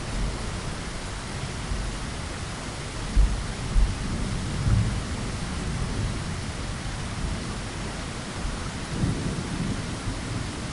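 Steady rain falling, with low rumbles of thunder underneath and two sharper low thumps a little over three seconds in.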